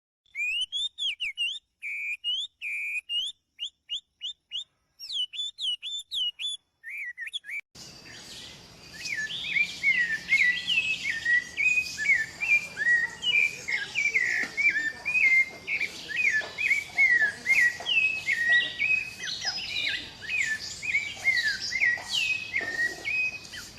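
Birds chirping: short separate chirps with silence between them, then from about eight seconds in a busier, continuous run of quick repeated chirps over a steady background hiss.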